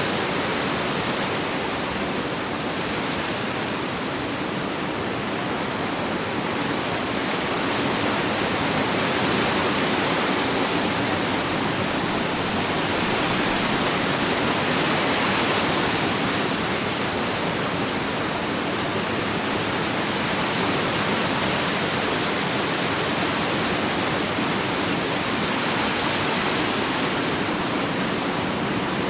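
Ocean waves breaking and washing on a beach, a steady rushing noise that swells and eases slowly every several seconds.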